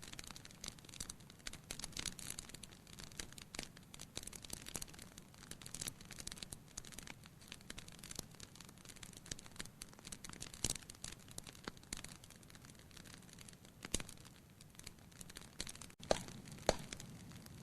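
Wood fire crackling in a fireplace: irregular snaps and pops over a low steady rumble, with a few louder pops.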